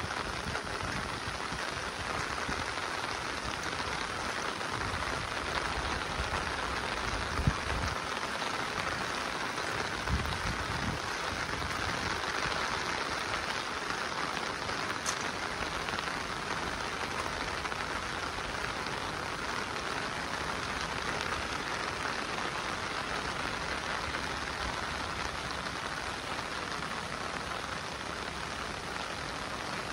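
Steady heavy monsoon rain falling, an even dense hiss of drops, with a few low thumps in the first ten seconds or so.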